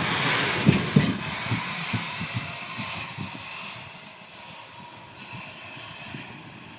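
Freight train wagons rolling past, their wheels clattering over rail joints with a rolling hiss; the clatter is loud at first and fades and thins out as the train moves away.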